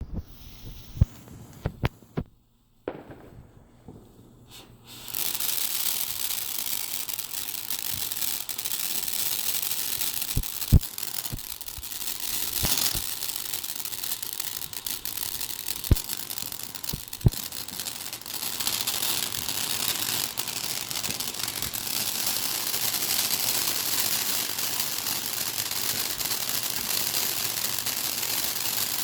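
Consumer fireworks going off: a few sharp bangs, then a steady hissing spray that starts suddenly about five seconds in, with sharp pops now and then.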